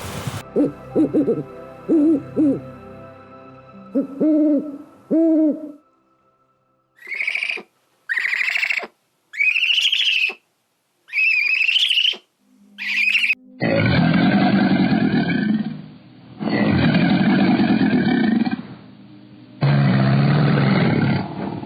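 A sequence of recorded animal calls. First come several short low calls, then five high-pitched bird calls about a second long each, then three long, rough calls of about two seconds each, which are the loudest part.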